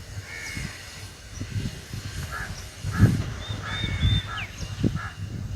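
Wind buffeting the microphone in irregular low gusts, with birds giving short calls over it several times.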